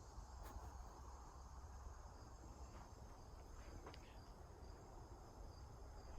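Faint, steady high-pitched chorus of crickets in the woods, with a faint tick or two.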